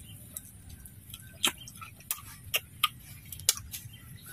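A person eating fried duck, chewing between bites: about half a dozen short, sharp mouth clicks and smacks scattered over a faint low background.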